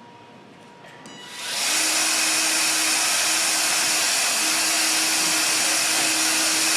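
Metabo cordless magnetic drill spinning up a little over a second in, then running steadily at speed as it bores a hole with an annular cutter. The operator reckons this hole has dulled the cutter.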